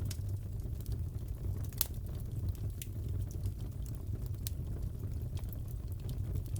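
Crackling fireplace: a steady low rumble of burning logs with scattered sharp pops and snaps, the loudest pop a little under two seconds in.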